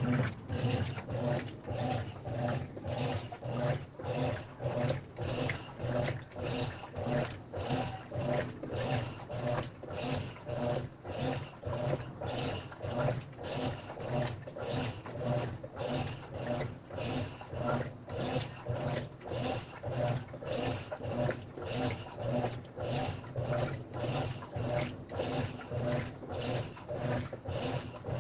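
Washing machine agitating a load of clothes: a swish repeated about three times every two seconds, evenly, over a steady low motor hum.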